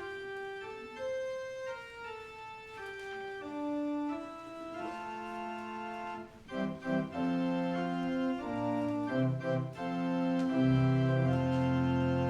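Church organ playing: a single melody line of held notes, thickening into full chords about five seconds in, with deep bass notes joining near the end.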